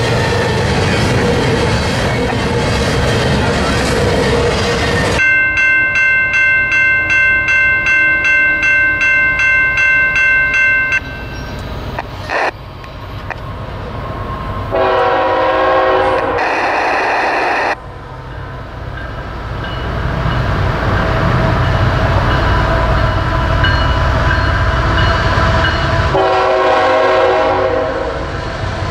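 Freight cars rumbling over the crossing, then a grade-crossing bell ringing about twice a second for several seconds. An approaching CSX freight locomotive's air horn sounds two blasts about halfway through and one more near the end, over the building rumble of the train drawing near.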